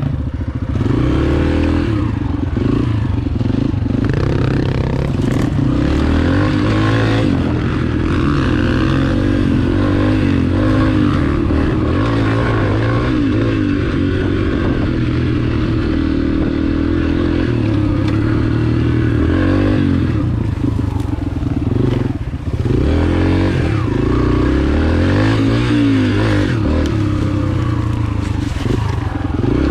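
Four-stroke single-cylinder dirt bike engine ridden on a trail, revving up and down again and again as the throttle opens and closes. There is a brief dip in the engine noise about two-thirds of the way through.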